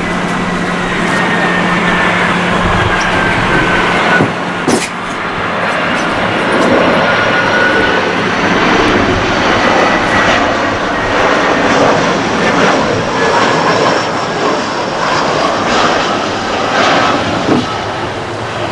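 Airbus A321-211 jet airliner's CFM56 turbofan engines passing close by, a loud, steady jet noise with a thin whine that slowly falls in pitch.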